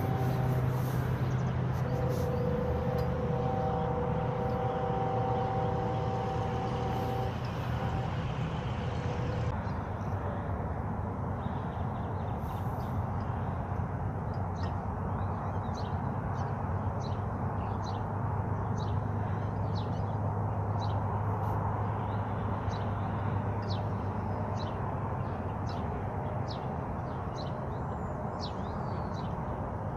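Small birds chirping, short high chirps about once a second from roughly ten seconds in, over a steady rushing noise and a low hum. For the first nine seconds or so a few steady tones sound over the hum, then stop.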